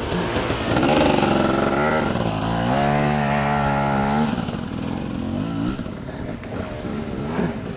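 Dirt bike engine revving hard on a hill climb, rising about a second in and held at high revs with a wavering pitch, then dropping back to a lower, uneven run near the middle.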